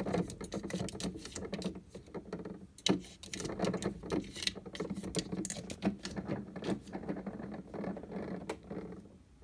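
Plastic dishwasher spray arm rattling and clicking as a cat paws it round, in irregular runs of clicks over a low steady hum, dying down near the end.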